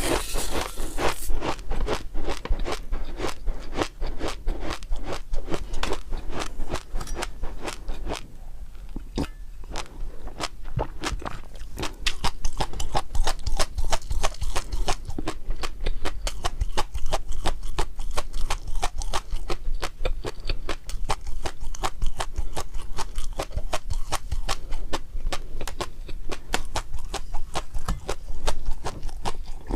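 Close-miked eating: a rapid, continuous run of small crisp crunching and chewing clicks, easing off briefly about a third of the way in.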